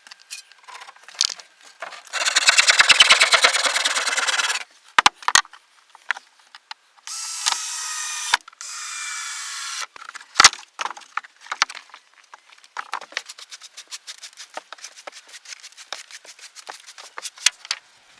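Woodworking sounds: a few seconds of fast sawing through wood, then two short runs of a power tool's whine that stop abruptly, with many light knocks and taps scattered throughout.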